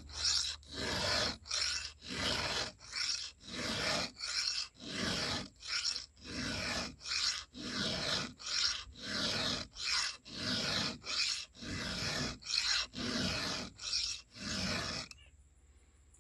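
Hand file rasping across the cutters of a chainsaw chain in steady strokes, about one and a half a second, sharpening the chain. The strokes stop near the end.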